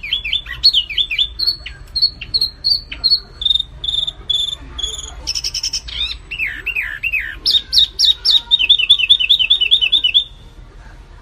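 Recorded song of small songbirds, wambi mini and kapas tembak, played as a masteran training track: quick high chirps and down-slurred whistled notes, ending in a fast run of repeated notes that stops shortly before the end.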